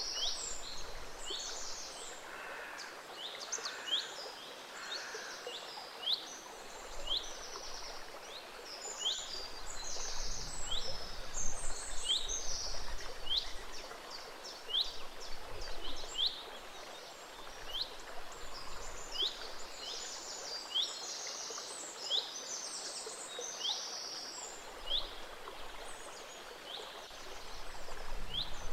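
A gentle stream running steadily, with songbirds singing over it: short, sharp high chirps repeated about once a second, mixed with buzzy trills.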